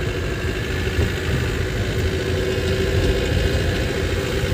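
Isuzu Crosswind engine idling steadily, heard from inside the cabin.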